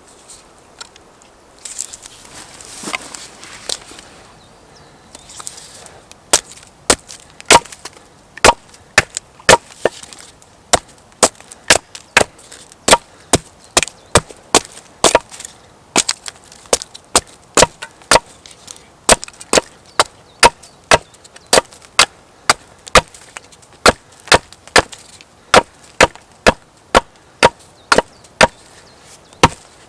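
Wood being chopped with a hand tool: a splintering, crackling stretch early on, then a long run of sharp, steady chops into wood, about two a second.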